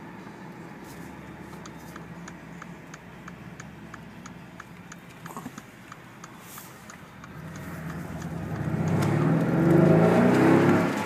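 Mercedes-Benz SL63 AMG's twin-turbo V8 heard from inside the cabin: running quietly at first, with a regular light ticking, then rising in pitch and growing loud as it revs up under acceleration in the last few seconds.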